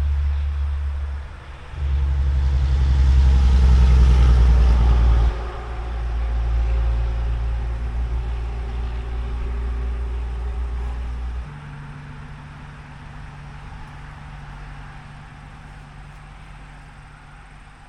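A motor vehicle's engine running with a steady low rumble, loudest around four seconds in, then dropping to a quieter rumble about halfway through.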